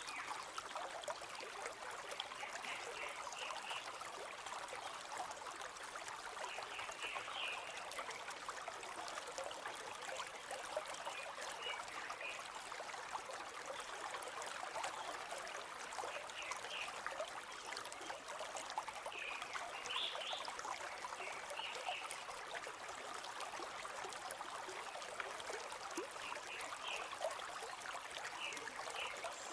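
River flowing steadily, with short high chirps every few seconds over the rush of water.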